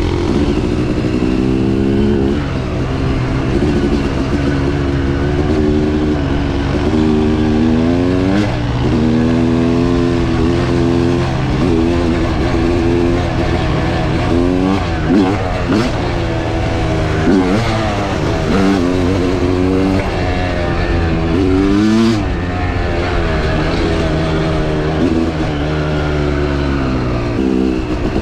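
Dirt bike engine under hard riding, its revs repeatedly climbing and dropping back as the throttle is worked and the gears change, with a few sharp knocks in the middle.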